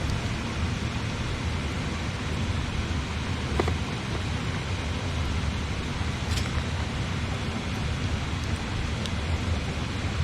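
Steady rush of a flowing river, with a campfire giving a few sharp crackles and pops, the clearest about a third of the way in and again past halfway.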